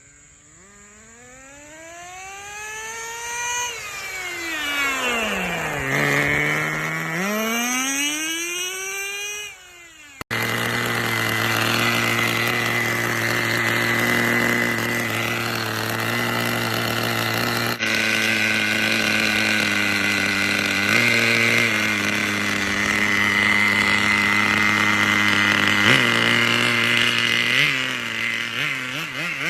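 Small two-stroke engine of a homemade ride-on toy car being revved up, down and up again. After an abrupt break it runs steadily at a constant speed, with a couple of short throttle blips near the end.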